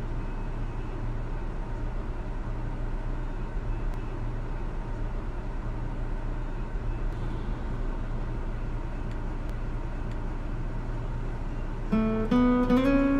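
Steady low rumble of a car's interior while driving. About a second before the end, acoustic guitar music starts with a few plucked notes.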